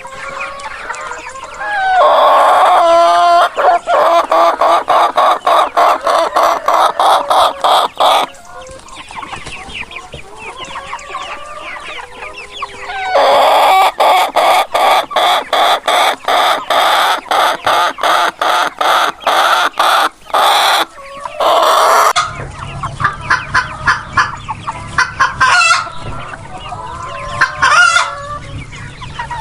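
Chickens clucking and cackling, with rooster crowing. There are two long, loud runs of quick repeated calls, with separate calls between them.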